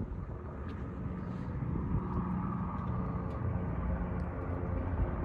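A 2008 Audi B7 S4 Avant's 4.2-litre V8 idling steadily.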